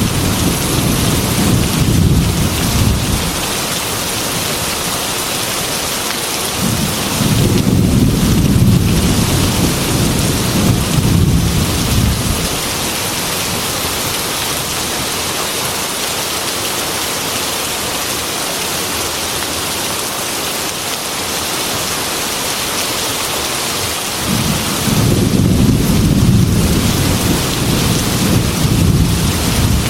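Heavy rain falling steadily, with low thunder rumbling three times: at the start, again for several seconds from about seven seconds in, and near the end.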